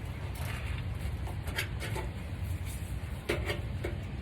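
Short scrapes and knocks of hand work on car parts as a part is worked loose, a few separate strokes, over a steady low hum.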